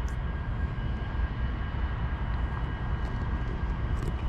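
CSX diesel locomotive idling: a steady low rumble with a faint, steady high whine above it.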